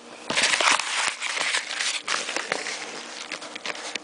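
A paper mailing envelope with its card packaging is handled and torn open by hand. It makes a dense rustling for about the first two seconds, then lighter rustles and ticks.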